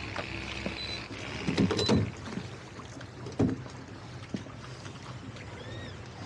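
Boat engine running steadily, with a cluster of loud knocks about a second and a half in and one sharp knock about three and a half seconds in.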